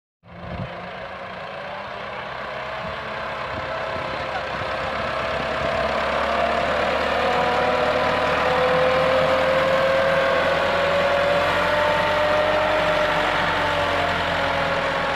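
Massey Ferguson 385 tractor's diesel engine running steadily, growing louder over the first several seconds, with a whine that slowly rises and falls in pitch.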